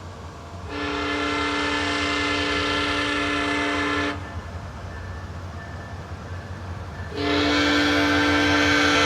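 Locomotive air horn sounding two long blasts, a chord of several pitched notes, the second starting about seven seconds in and still going at the end, over a low steady rumble. It is typical of a train sounding its horn as it approaches a grade crossing.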